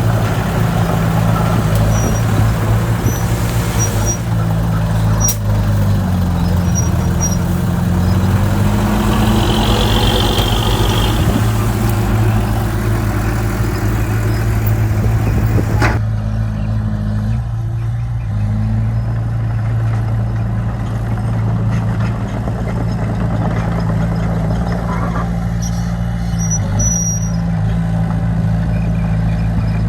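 Heavy diesel engines of construction machinery running steadily, the engine note rising and falling once about a third of the way in, with a short hiss near the middle and a couple of sharp clicks. The sound turns duller about halfway through.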